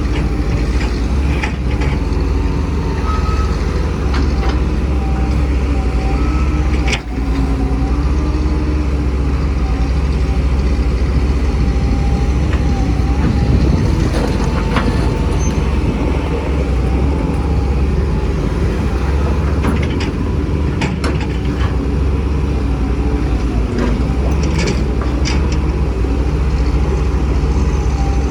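Heavy diesel engines of an excavator and dump trucks running steadily, the engine note bending as the machines take load. A few sharp metallic clanks come through.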